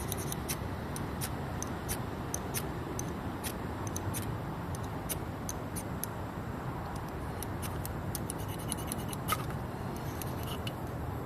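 Light, irregular ticks and scratches of kindling and birch bark tinder being handled and arranged, over a steady low background rumble.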